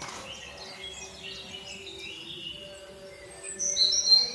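Birds chirping and calling, with a louder burst of high calls near the end.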